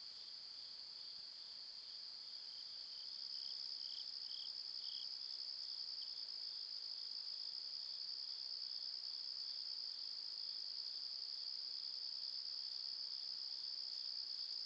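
Insects, crickets or katydids, trilling in a steady, continuous high-pitched chorus, with a fainter, slightly lower chirping voice pulsing beneath it.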